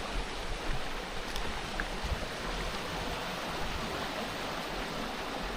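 Running water of a hillside stream, a steady even rushing, with low wind rumble on the microphone now and then.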